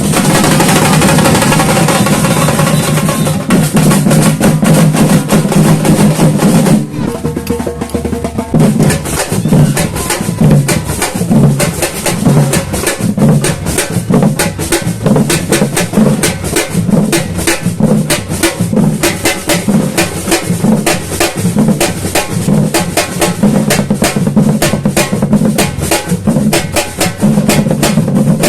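Samba batucada drum ensemble playing: surdo bass drums pounding a steady pulse under dense, fast snare and shaker strokes. The playing dips briefly about seven seconds in, then the full beat picks up again.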